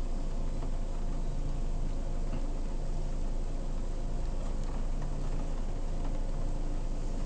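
Steady low hum of an idling vehicle heard from inside the cabin, with a few faint, irregular ticks over it.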